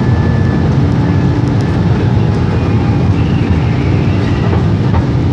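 Steady, loud noise of a Boeing 767's jet engines and airflow heard from a passenger seat inside the cabin, a deep even rumble during the climb-out after takeoff.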